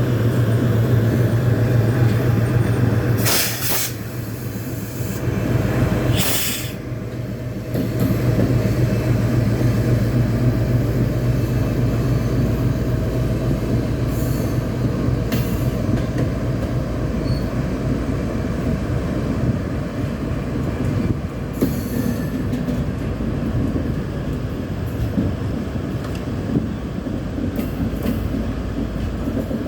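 Train running along the track: a steady rail rumble with a strong low hum that weakens after about eight seconds, and two brief sharp bursts of noise about three and six seconds in.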